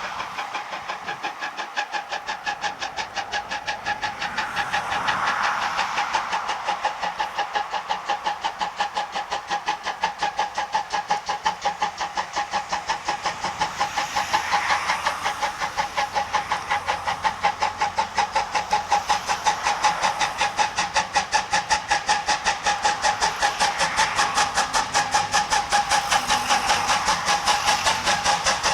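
Steam locomotive C12 66, a 2-6-2 tank engine, working under steam: a rapid, even beat of exhaust chuffs with steam hiss and a steady whine underneath, growing louder towards the end as it draws nearer.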